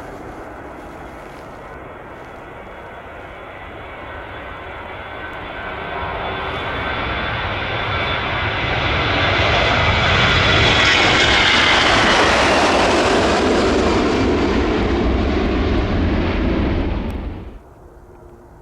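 Four-engined Boeing 747-400 jet airliner departing, its engine noise building to a loud peak with a falling whine as it passes. It cuts off suddenly near the end.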